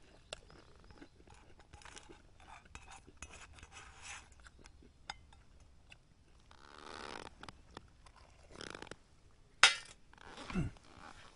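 Scattered small clicks, clinks and crunches of things being handled, with one sharp knock about nine and a half seconds in, followed by a short low sound that drops in pitch.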